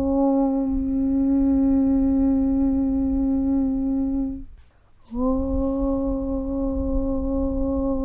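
A voice chanting a long, steady 'Aum' on one low pitch, breaking off briefly a little after halfway and coming back in with a slight rise into the note.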